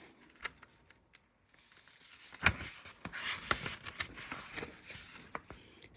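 Pages of a picture book being handled and turned: paper rustling and crinkling with small clicks, starting about a second and a half in and going on for about four seconds.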